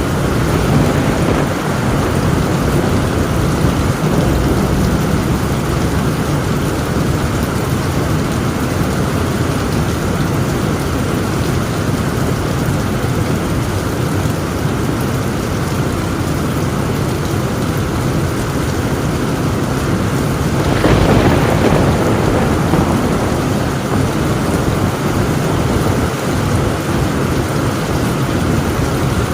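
Heavy rain drumming steadily on a tin roof, with a clap of thunder breaking in suddenly about two-thirds of the way through and rolling away over a couple of seconds.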